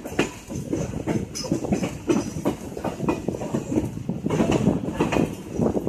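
Indian Railways passenger train running, its wheels clattering on the track and the coach rattling, heard through an open coach window.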